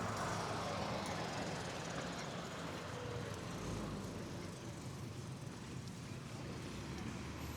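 Steady street ambience dominated by a wash of passing and distant road traffic, with no distinct single event.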